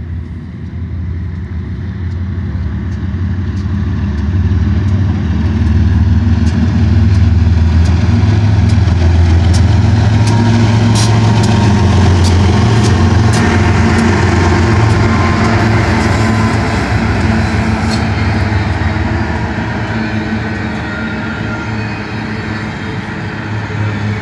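Two GE ES44DC diesel-electric locomotives pass close by, their engine drone building to its loudest as they go past. The empty intermodal cars behind them roll by with a run of sharp clicks from the wheels on the rails, and the sound eases off near the end.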